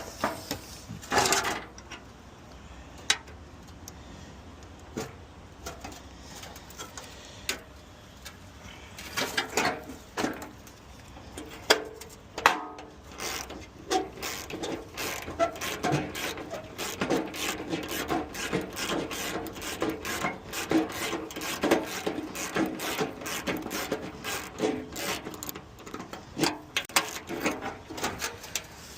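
Hands and tools working on a crashed car's damaged front-end parts. Scattered knocks and clicks at first, then, from about a third of the way in, a dense run of rapid clicking and rattling with short squeaks.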